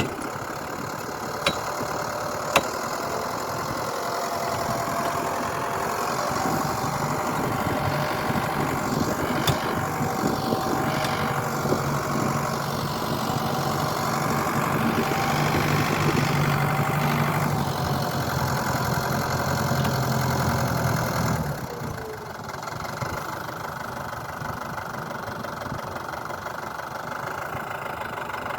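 An engine running steadily, getting somewhat louder through the middle and then dropping off to a lower, quieter running about twenty seconds in. Two sharp clicks sound near the start.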